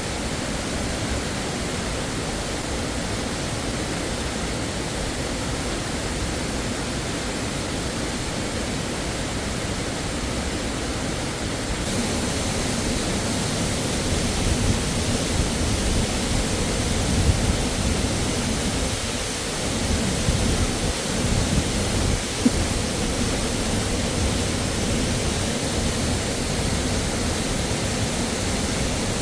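Waterfall rushing, a steady noise that gets a little louder and brighter about twelve seconds in. A few faint knocks sound through it in the second half.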